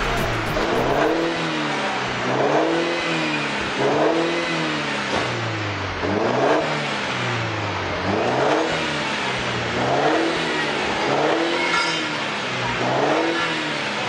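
Mercedes-Benz E200 Cabriolet engine heard through an aftermarket TRR cat-back exhaust, revved in short blips again and again. Each blip rises and falls in pitch, roughly every two seconds.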